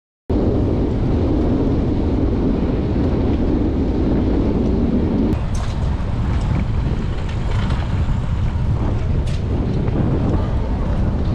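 Wind buffeting the microphone of a camera on a moving bicycle, a steady low rumble of rushing air and road noise that cuts in suddenly just after the start and eases a little about halfway through, with a few faint clicks.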